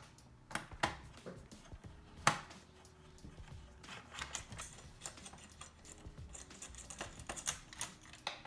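Scattered light clicks and taps of a screwdriver and small screws as the heatsink clamp on a PS4 Slim motherboard is unscrewed, with one sharper click about two seconds in.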